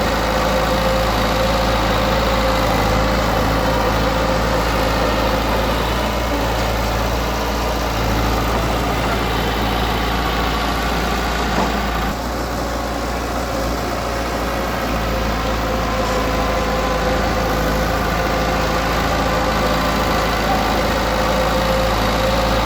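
Diesel engine of heavy construction machinery running steadily at a constant pitch, its higher frequencies dipping slightly about halfway through.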